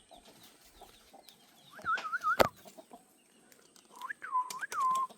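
Chicken calling: two wavering, whistle-like calls, a short one about two seconds in and a longer one near the end. A single sharp knock comes just after the first call.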